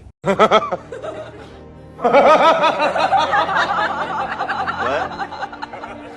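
Music with laughing voices, which crowd in thickly from about two seconds in.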